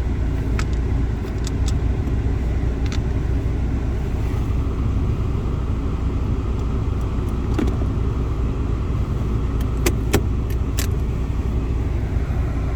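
Steady low rumble of a car heard from inside the cabin, with several sharp clicks and ticks scattered through it and a small cluster of louder ones near the end.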